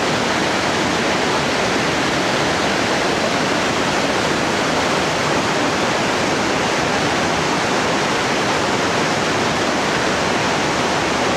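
The Rhine Falls: a large waterfall's steady rush of falling water, an even, unbroken noise that holds the same level throughout.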